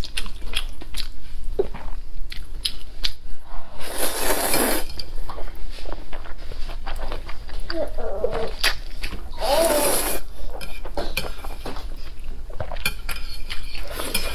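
Close-up eating sounds: chewing and biting, with small clicks of cutlery against a dish. Two short, louder rushing bursts come about four and ten seconds in.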